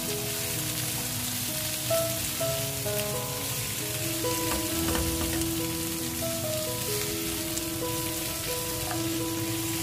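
Squash and green beans sizzling in a wok as they stir-fry, a steady hiss, under background music of slow held notes.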